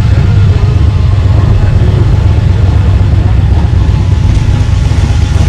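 Motorcycle engine idling steadily with a fast, even pulse, kept running continuously as an oil demonstration.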